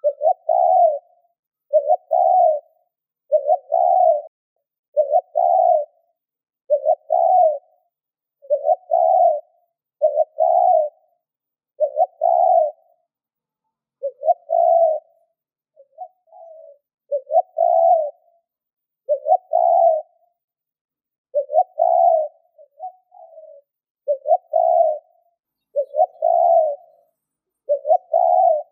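Spotted dove (chim cu gáy) cooing in short repeated phrases, about one every one and a half seconds. Each phrase is a cluster of two or three low coos.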